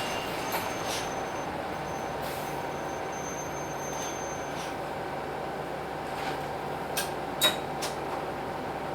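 Hino Blue Ribbon City bus's P11C 10.5-litre diesel engine running steadily. A few short clicks come about seven seconds in.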